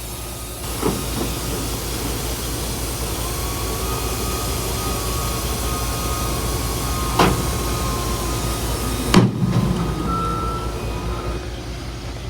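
Heavy diesel truck engine running steadily with a low rumble. Three short sharp knocks or clanks come through, the last and loudest about nine seconds in.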